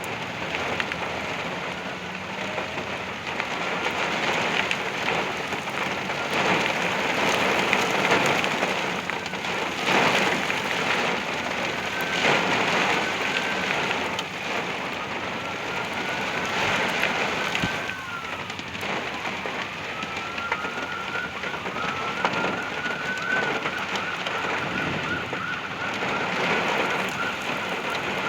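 Heavy wind-driven thunderstorm rain pouring down in a dense steady hiss, surging louder with gusts several times. A faint distant siren wails through it, rising and falling slowly over several seconds at a time.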